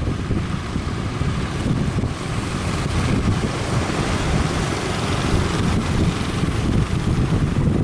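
Strong wind buffeting the microphone over the sound of breaking surf, a heavy, steady rumble.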